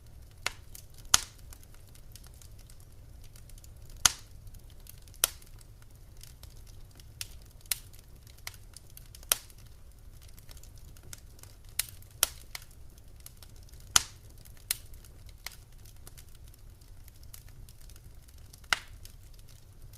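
Wood fire crackling: irregular sharp pops and snaps, about a dozen loud ones among many smaller ticks, over a faint low rumble.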